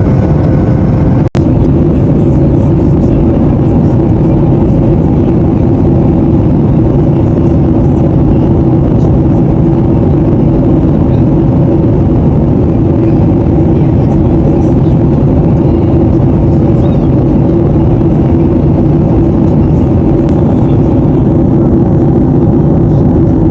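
Airliner cabin noise: a steady, loud roar of the jet engines and airflow heard from inside the cabin, with a brief break about a second in.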